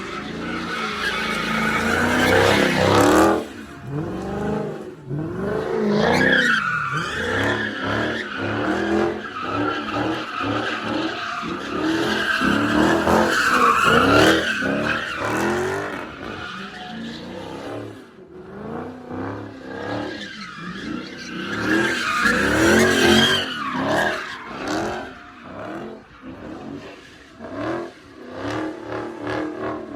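Car being driven hard in circles, its engine revving up and down while the tires squeal and skid. The sound swells and fades several times, loudest about three, fourteen and twenty-three seconds in.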